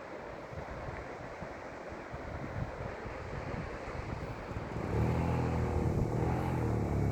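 Rushing road and wind noise during a motorbike ride. About five seconds in, a louder engine note comes in and runs at a steady pitch.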